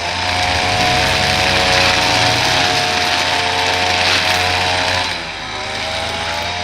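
Small gas engine of a handheld lawn-care power tool running at high revs; about five seconds in it dips in pitch and loudness, then picks back up.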